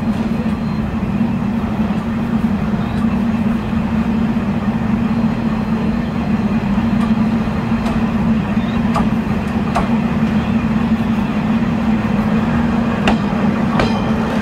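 Locomotive-hauled express passenger car running at speed, heard from inside the car: a steady rumble and hum of the wheels on the track. Several sharp clicks come in the second half.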